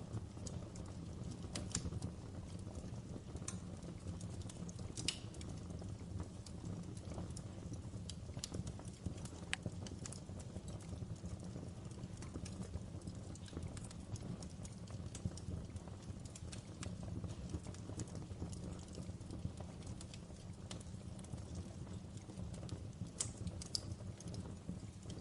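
Fire burning in a fireplace: irregular crackles and snaps, a few louder pops, over a steady low rumble of the flames.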